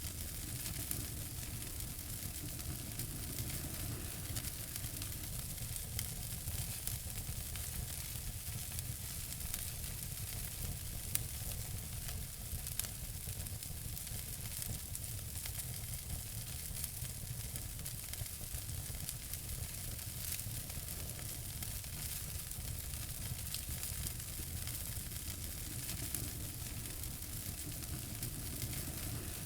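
Wood fire crackling and hissing steadily, with frequent small pops and snaps.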